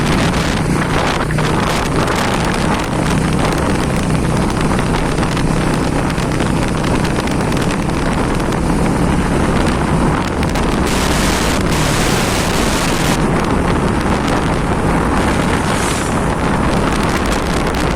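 Wind rushing over the microphone on a moving motorcycle, loud and steady, over the low hum of its engine.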